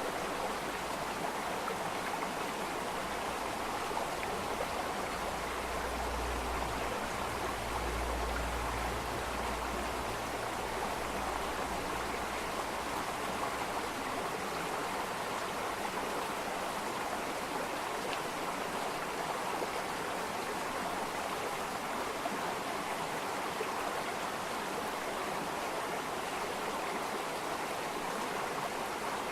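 Water flowing steadily in a stream, an even rushing hiss. A low rumble sits underneath from about five to twelve seconds in.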